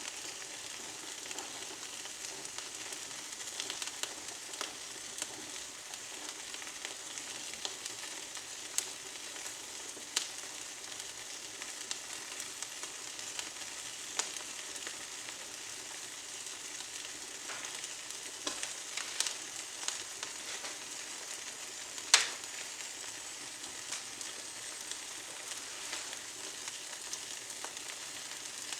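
Small twigs burning in a fireplace: a steady hiss with scattered crackles and pops, the loudest a sharp pop about three quarters of the way through.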